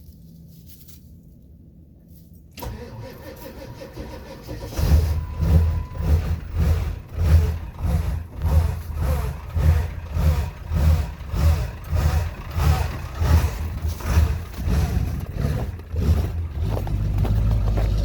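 Old Ford truck's engine cranking slowly on the starter in a cold start after two months sitting, an even chug about every half second for around twelve seconds, then catching and running steadily near the end.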